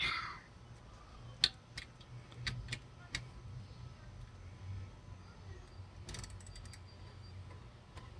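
Socket ratchet and metal tools clicking and clinking while an alternator's mounting bolts are tightened: single sharp clicks a second or two in, then a quick run of clicks about six seconds in.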